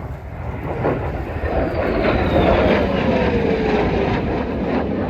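An aircraft flying past overhead: a rushing engine noise builds over the first couple of seconds, and its whine drops in pitch as it goes by.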